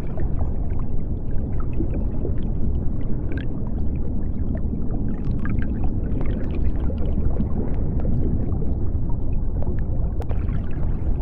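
Deep-sea underwater ambience: a steady low rumble of water with scattered small bubbling pops and clicks.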